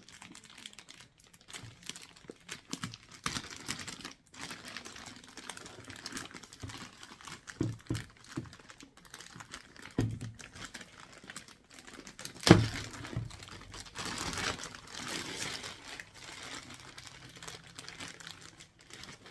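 Plastic packaging crinkling and rustling as it is handled, with scattered clicks and light knocks and one louder thump about twelve seconds in.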